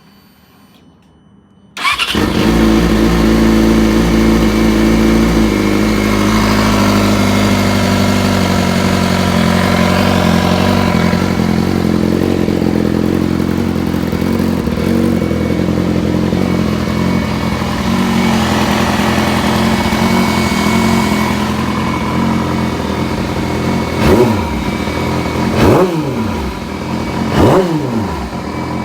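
2016 Yamaha YZF-R6's inline-four engine starting about two seconds in, then idling, high at first and settling a few seconds later. Near the end there are three quick throttle blips, each rising and falling in pitch. The owner hears a weird noise in it whose cause he does not know.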